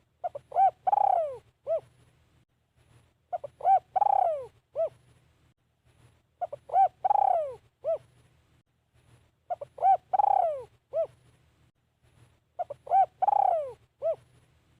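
Spotted dove cooing, a caged decoy bird calling to draw in wild doves. It repeats the same phrase about every three seconds, five times: a few short coos, a longer coo falling in pitch, then one short closing note. A faint low hum runs underneath.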